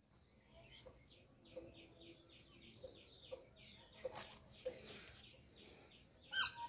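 Faint bird calls: a quick series of short, high chirps, several a second, with a few faint clicks, and louder calls near the end.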